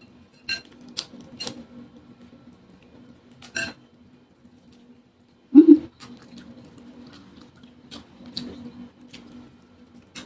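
Close-miked eating sounds: a spoon clinks against a bowl four times in the first few seconds, a short low throat sound like a gulp comes about halfway through as the loudest moment, and soft chewing and smacking follow.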